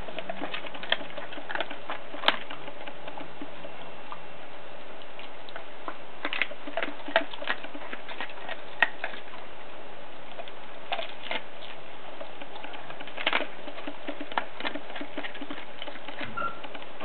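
Groenendael dog chewing and crunching the bones of a raw rabbit head and duck carcass: irregular wet chewing with sharp cracks of breaking bone, a few louder snaps among them.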